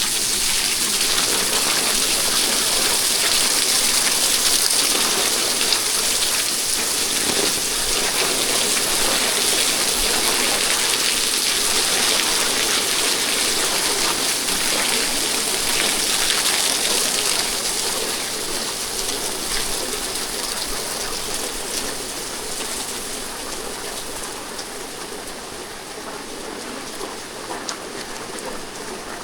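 Heavy rain falling on the street and nearby surfaces: a dense, steady hiss that grows fainter over the last ten seconds or so.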